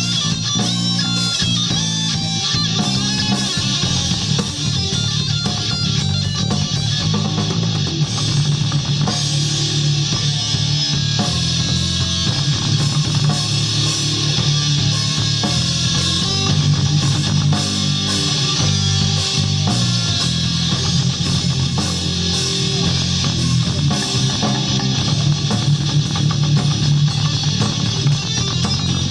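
Live rock band playing: distorted electric guitar over bass guitar and a drum kit, loud and continuous.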